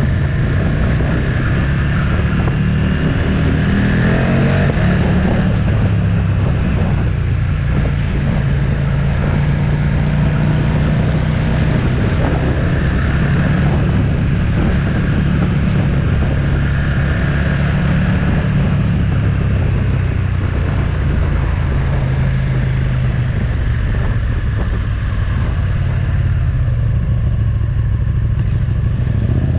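Motorcycle engine running under way, with wind and road rush; the engine note glides up about four seconds in, then holds fairly steady.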